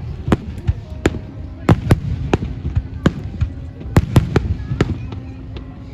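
Aerial fireworks bursting in quick succession: sharp bangs about two or three a second over a low rumble.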